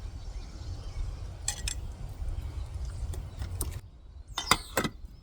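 A few light clinks and clicks of cooking utensils and containers being handled, over a low outdoor rumble. A bird chirps once about four seconds in.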